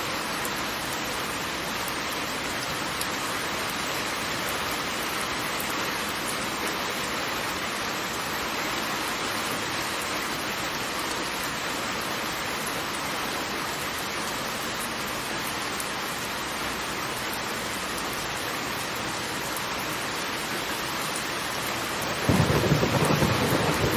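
Steady rushing of heavy falling water, a dense even hiss. About two seconds before the end a louder, deep rumble comes in over it.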